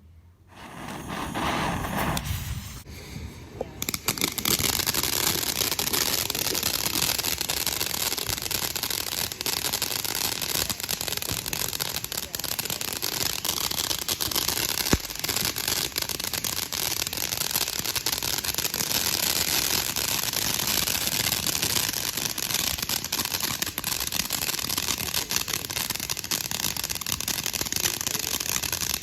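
TNT Fireworks 'Mad Trolls' ground fountain firework spraying: it lights about half a second in, builds and dips briefly, then runs as a steady hiss with dense constant crackling.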